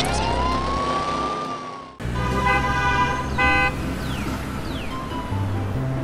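Background music with cartoon sound effects: a rising whistle-like glide that holds and fades. After a sudden cut about two seconds in, there are two short honks and a couple of quick falling swoops.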